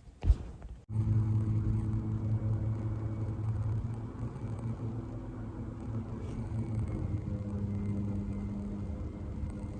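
Construction machinery giving a steady low mechanical drone with a pitched hum, heard inside an apartment. A sharp click comes near the start, just before the drone begins.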